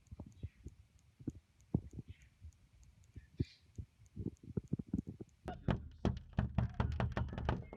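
Irregular soft thumps and taps, scattered at first and then coming thick and faster about five and a half seconds in.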